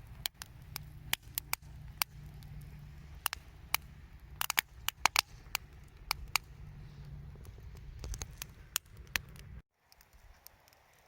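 Hardwood campfire in a fire-pit stand crackling, with irregular sharp pops and snaps over a steady low rumble. About nine and a half seconds in, the rumble cuts off abruptly and fainter crackles go on.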